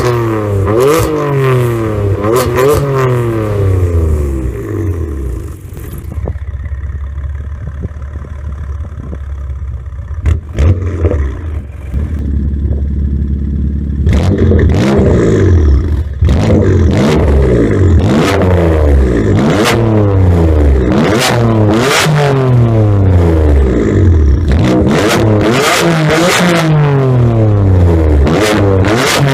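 BMW M4's S55 3.0-litre twin-turbo inline-six, fitted with Akrapovic downpipes and a full aftermarket exhaust, revved repeatedly in quick rises and falls. It settles to a steadier low running note for several seconds, with a few sharp cracks, and then is revved hard again over and over.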